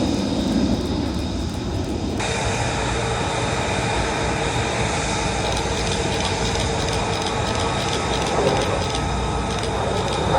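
Aircraft engine noise: a steady rumble with a high steady whine over it. The sound changes abruptly about two seconds in, growing brighter.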